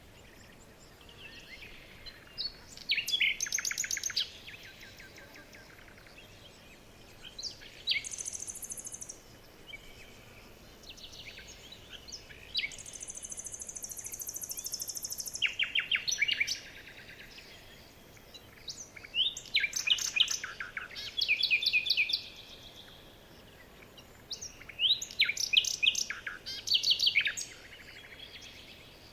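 Several songbirds chirping and trilling in short bursts of rapid notes every few seconds, with two longer, very high buzzing trills, one about 8 seconds in and one from about 13 to 16 seconds.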